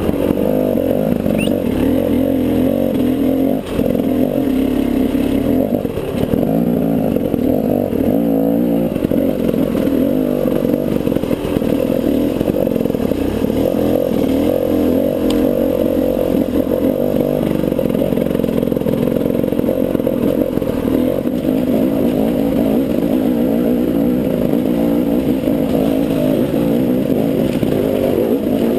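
Enduro dirt bike engine running at low, steady revs while the bike climbs a rocky stone track, heard from the rider's helmet camera.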